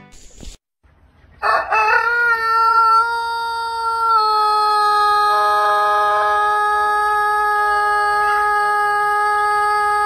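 Rooster crowing: one long call that starts about a second and a half in with a rough, wavering onset, then holds at one steady pitch, stepping down slightly twice.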